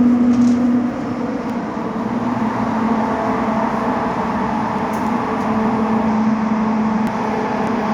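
Inside a Class 345 Elizabeth line train running through a tunnel: a steady rumble of running noise with a humming tone that fades about a second in and comes back from about five and a half seconds.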